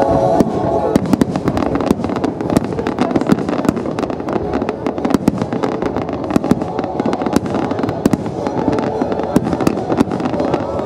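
Fireworks display: a dense, continuous run of aerial shell bursts and crackling pops, with many sharp bangs close together.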